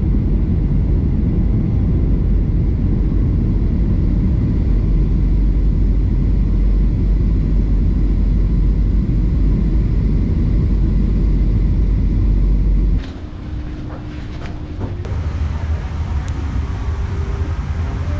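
Airliner cabin noise: a loud, steady low rumble of the engines, as heard from inside the plane, which drops abruptly to a quieter rumble about thirteen seconds in.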